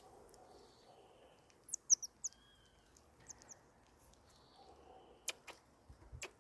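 Common marmosets giving quick, very high-pitched chirps, a burst of about five about two seconds in and a couple more a second later. Three sharp clicks follow near the end.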